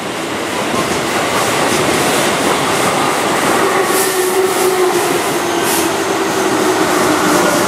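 Keihan 1000-series electric commuter train rolling past: a steady rumble of wheels on rail, with a humming tone that slowly drops in pitch through the second half.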